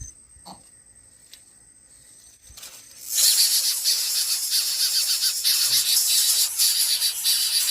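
Insects begin a loud, shrill, buzzing chorus suddenly about three seconds in, with fast ticking running through it, after a few faint clicks.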